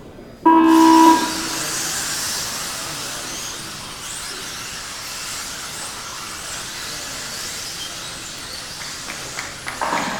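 Race timing system's start tone: one short pitched beep about half a second in, followed by a steady hiss.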